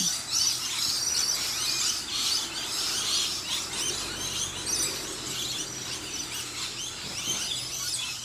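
A chorus of many wild birds chirping and calling at once, a dense overlapping tangle of quick high chirps.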